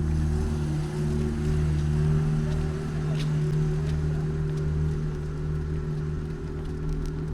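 A motor vehicle's engine running steadily close by, a low hum that holds its pitch with only a slight waver.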